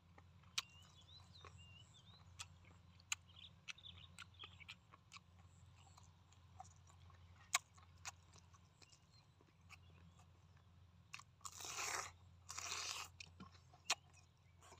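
A person chewing braised pork with the mouth closed, soft wet chewing broken by scattered sharp crunchy clicks. Near the end come two short, louder hissing rushes of sound.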